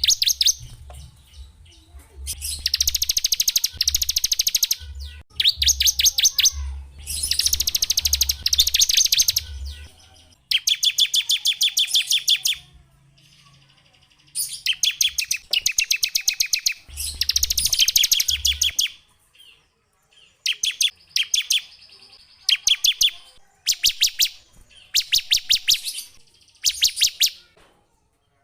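A small songbird singing rapid, high trilled phrases, each a second or two long with short pauses between, the phrases growing shorter and more clipped in the second half.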